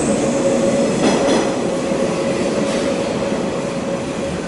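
485-series electric train passing close and pulling away from the platform, its wheels clacking over rail joints, over a steady tone. It fades slowly as the last car draws off.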